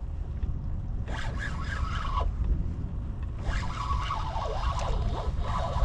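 Steady low rumble of wind on the microphone over open water, with two stretches of a higher wavering, warbling whine, the first about a second in and the second starting about halfway through.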